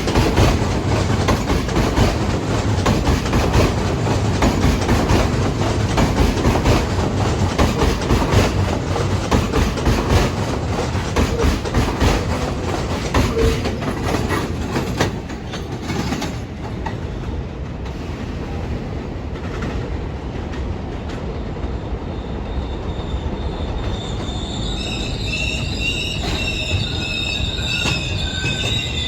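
New York City subway train on elevated track, its wheels clattering rhythmically over the rail joints, growing quieter about halfway through. Near the end a high-pitched wheel squeal sets in, the flanges grinding against the rails on a curve.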